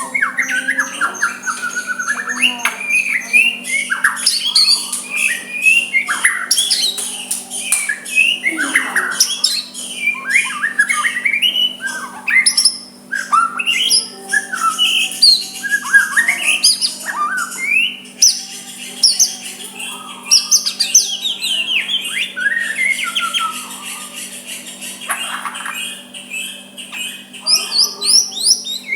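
White-rumped shama (murai batu) singing a continuous, varied song of whistled glides, quick chirps and harsh chattering notes, over a faint steady low hum.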